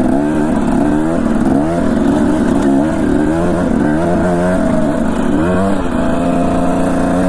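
Dirt bike engine running under the rider, its pitch rising and falling every second or so with repeated bursts of throttle.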